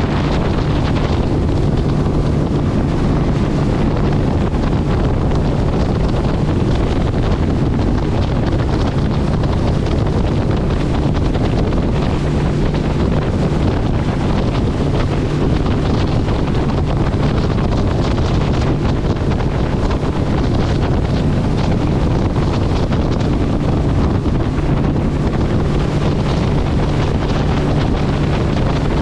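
Strong wind buffeting the microphone, loud and unbroken, over a steady low drone.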